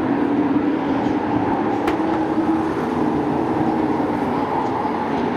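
A field of short-track sport trucks racing, their engines making a steady, loud drone whose pitch drifts slightly as the trucks run at speed. There is a brief sharp click about two seconds in.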